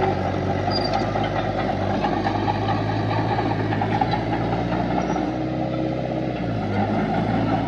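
Diesel engine of heavy earthmoving machinery running steadily at a low, even pitch, its tone shifting slightly for about a second past the middle.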